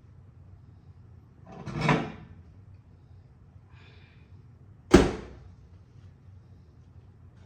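A brief scraping sound about two seconds in, then one sharp knock about five seconds in, of the kind a kitchen cupboard door or drawer makes shutting.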